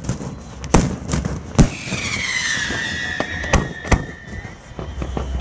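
Fireworks display: several sharp bangs of bursting shells, with a whistling firework whose pitch slides down and then holds for about two and a half seconds in the middle.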